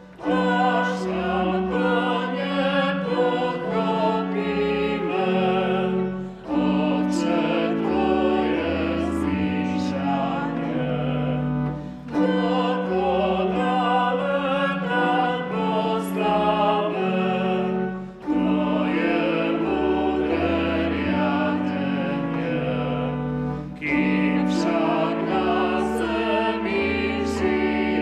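Church hymn on organ with voices singing along, in phrases broken by short pauses about every six seconds.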